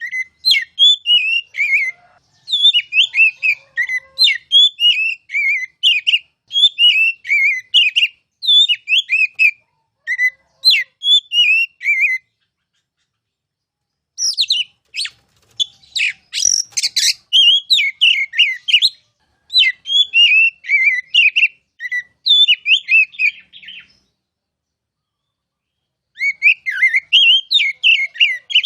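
Oriental magpie-robin (kacer) singing loud, clear repeated whistled phrases, each about a second long, in runs broken by two pauses of about two seconds; a harsher, scratchier stretch comes near the middle.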